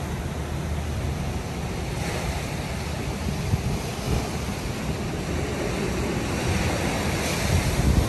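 Ocean surf breaking and washing ashore, a steady rush with a wave's wash swelling louder near the end, and wind buffeting the microphone with a low rumble.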